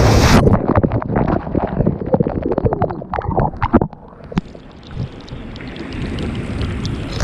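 Ocean surf: a breaking wave's rush cuts off about half a second in. Water then splashes and gurgles in irregular crackles, with wind rumbling on the microphone, and settles to a quieter hiss of surf after about four seconds.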